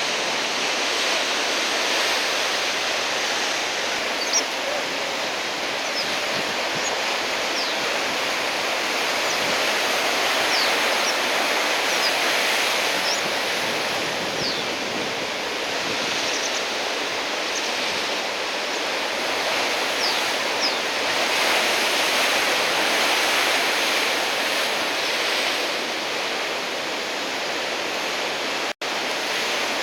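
Heavy surf from a typhoon swell: a steady wash of breaking waves that swells and eases every few seconds. A few short high chirps sound over it, and the sound cuts out for an instant near the end.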